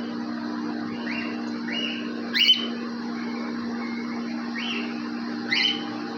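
Cockatiels calling in an aviary: about five short chirps, the two loudest about two and a half and five and a half seconds in, over a steady low hum.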